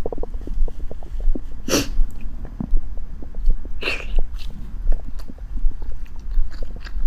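Close-up crackling of a tea egg's shell being peeled by hand: many small sharp clicks, with two louder, longer crackles about two and four seconds in.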